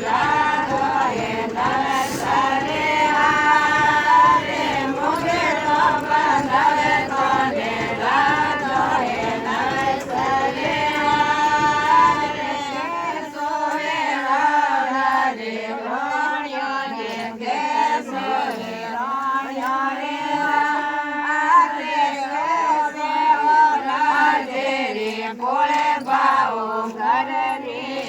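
Several women singing a song together in chorus. A low rumble underneath stops about halfway through.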